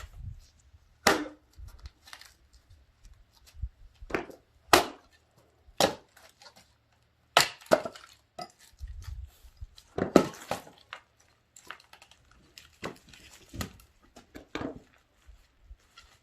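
Axe splitting firewood: about ten sharp wooden strikes and cracks, a second or two apart, some in quick pairs.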